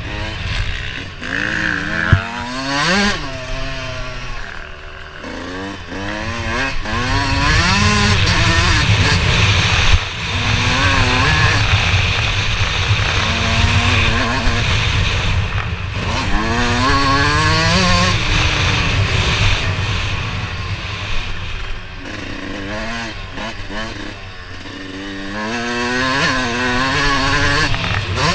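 Motocross dirt bike engine revving hard through the gears. Its pitch climbs and drops again several times as the throttle opens and closes around the track, over a steady low rumble.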